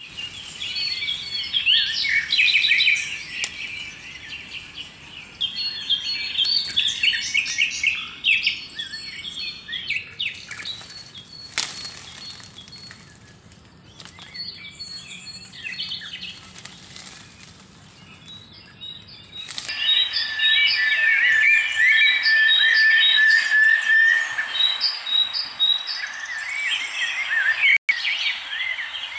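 Many small birds chirping and twittering together, with overlapping short calls. The chirping thins out for a while in the middle. About two-thirds of the way through, the sound changes abruptly to louder, busier chirping, with some calls repeated in a steady series.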